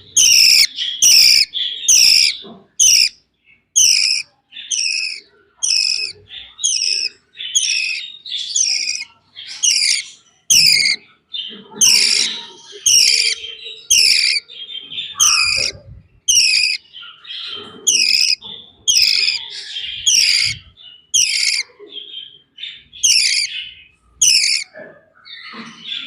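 Baby budgerigar (budgie chick) chirping: a steady run of short, high calls, each falling in pitch, about one to two a second.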